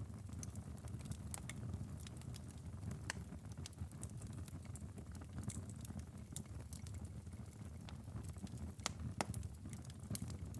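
Wood fire crackling in a fireplace: irregular sharp pops and snaps over a low, steady rumble of flames, with a couple of louder pops about nine seconds in.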